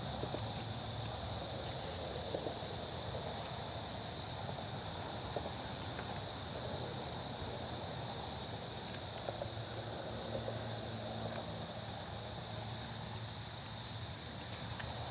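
Steady high-pitched insect chorus, with occasional faint crackles and snaps from a small fire of dry leaves and twigs.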